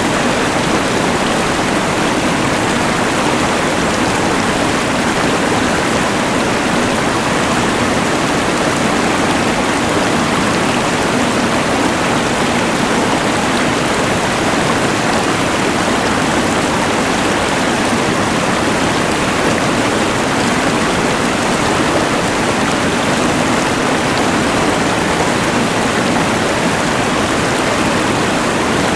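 Steady rush of a fast mountain river mixed with the even hiss of a LectroFan white noise machine, unchanging throughout.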